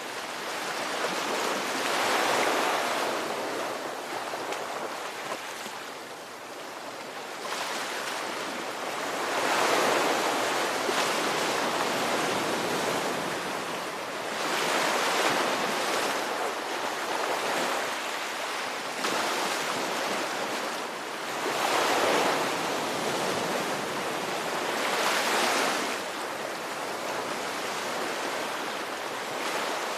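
Ocean waves rolling in and washing back, the surf swelling and fading every few seconds, with stronger surges about two, ten, fifteen, twenty-two and twenty-five seconds in.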